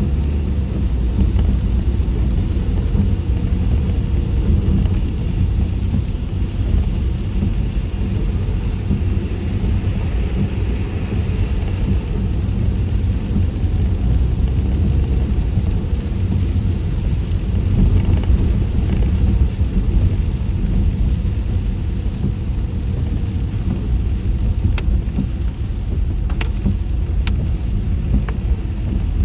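Car cabin road noise on a wet road in the rain, windows up: a steady low rumble of tyres and road with a hiss of rain and spray over it, and a few faint ticks near the end.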